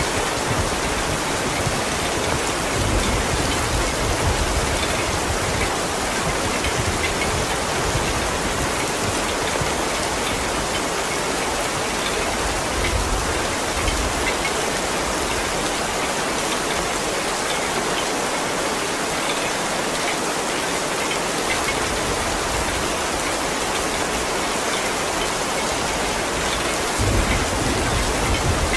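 Heavy rain falling steadily as an even, dense hiss, with a deep rumbling underneath that swells at times and grows stronger near the end.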